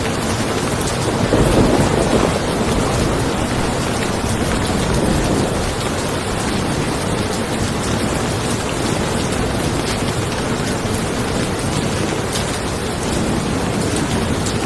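Steady rain falling, with a low rumble of thunder that swells about a second in and fades over the next couple of seconds.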